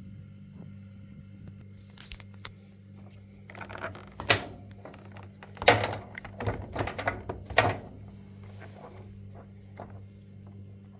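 Knocks and clicks of a top-loading washing machine's plastic control panel and control board being handled during the board's replacement, in a cluster about four seconds in and a longer run from about six to eight seconds in, over a steady low hum.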